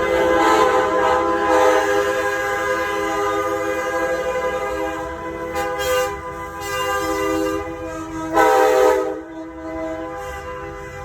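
Truck air horns blowing long, overlapping multi-note chords, with a short loud blast about eight seconds in; the horns fade near the end.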